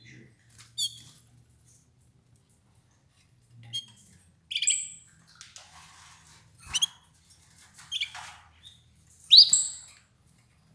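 Domestic canaries giving a scattering of short, high chirps, about six in all, the loudest near the end.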